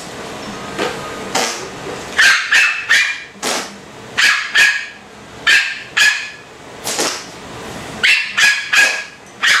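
A dog barking repeatedly in sharp barks, many coming in quick pairs or threes with short pauses between, starting about two seconds in. It is a dog barking in protest at fart sounds it hates.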